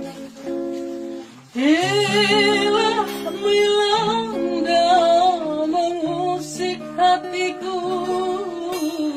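Acoustic guitar playing chords, joined about a second and a half in by a young man's singing voice that slides up into a long held note with vibrato and carries the melody over the guitar.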